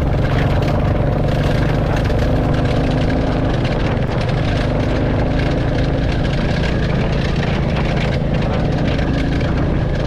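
Royal Enfield Classic 350's single-cylinder engine running at a steady speed under way, its low exhaust note even throughout.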